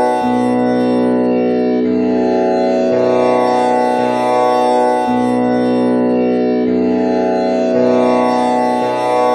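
Tanpura drone in B, with the first string tuned to komal Ni (the flat seventh) instead of Pa. Its strings are plucked one after another in a slow cycle that repeats about every five seconds, each pluck sounding into a steady, rich ring of overtones.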